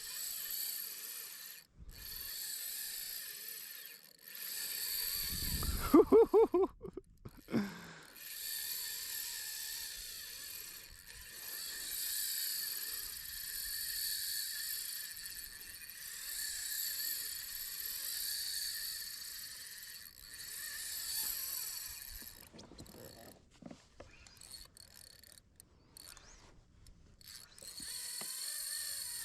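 Fishing reel clicking and buzzing in repeated surges about every two seconds as a hooked fish is fought. A louder, wavering pitched sound breaks in about six seconds in.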